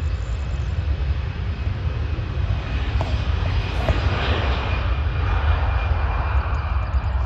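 Jet airliner engines running: a steady rushing noise with a thin high whine, swelling about four seconds in, over a constant low rumble.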